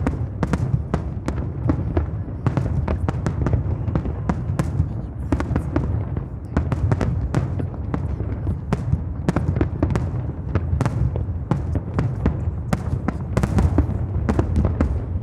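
Fireworks display going off continuously: a dense run of sharp crackles and pops, several a second, over a steady low rumble of bursting shells.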